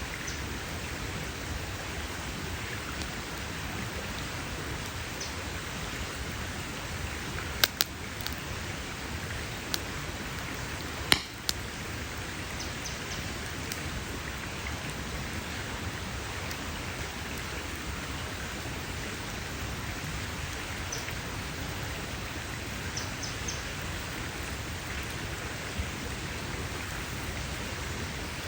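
Campfire burning with a steady hiss and occasional sharp pops of burning wood, a pair about eight seconds in and the loudest about eleven seconds in.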